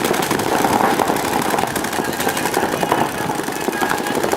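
Several paintball markers firing rapid, overlapping shots in a continuous clatter.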